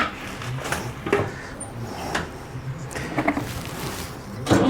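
A few clunks and clicks, then near the end a Massey Ferguson MF230 tractor's engine starts being turned over, with a sudden loud, steady mechanical sound.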